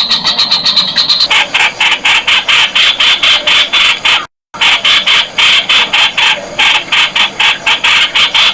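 Streak-eared Bulbul calling: a fast run of short, harsh notes, about six a second. The sound drops out completely for a moment about four seconds in, then the calling resumes.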